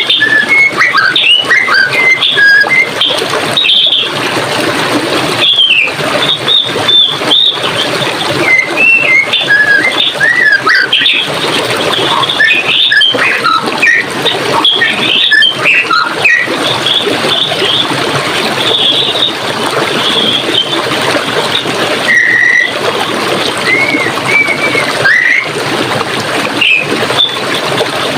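Running water flowing steadily, with many small songbirds chirping and whistling over it in quick, scattered phrases.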